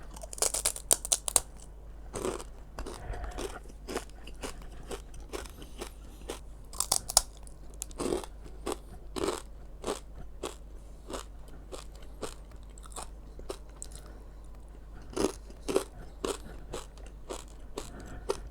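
Close-up crunching and chewing of crispy fried fish skin coated in salted egg and cheese: a long run of sharp crunches, denser in bursts near the start, about seven seconds in and around fifteen seconds in, as fresh pieces are bitten.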